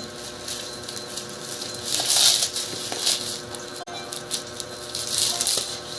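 Sealed parcel packaging being cut and torn open with a blade: plastic and tape rustling and crinkling in short bursts, loudest about two seconds in and again about five seconds in.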